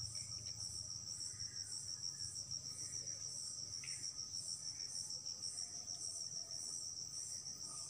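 Crickets trilling: a steady high-pitched chorus with a faint regular pulse.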